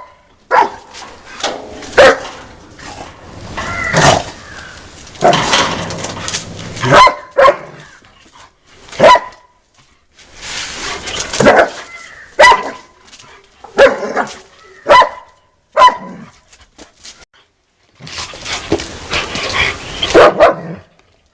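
A dog barking repeatedly in short, irregular bursts, with a brief silent pause in the last third.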